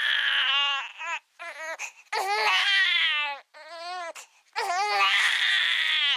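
High-pitched crying: three long wavering wails with short sobbing cries between them.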